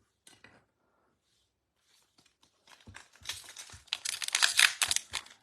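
A trading card pack's wrapper being torn open and crinkled. The crackling starts about three seconds in after a nearly quiet start and is loudest near the end.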